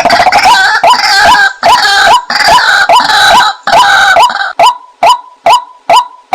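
White-breasted waterhen (female) calling: a loud note repeated about two to three times a second, tangled with harsher, noisier calls for the first four seconds or so, then a clean run of single repeated notes. A lure call used to draw waterhens in.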